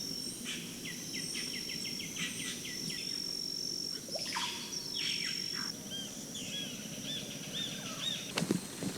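Amazon rainforest ambience: a steady high-pitched insect drone with rapid strings of short chirping calls, about five a second, in the first few seconds, and slower, looping calls in the second half.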